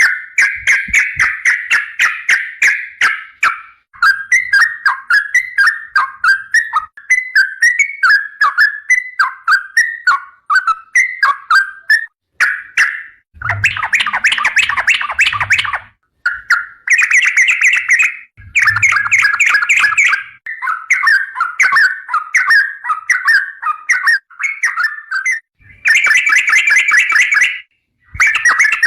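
Yellow-vented bulbul (trucukan) singing long, fast runs of clear whistled and chattering notes, in phrases a few seconds long with short breaks between them; the busiest, loudest runs come about midway and near the end.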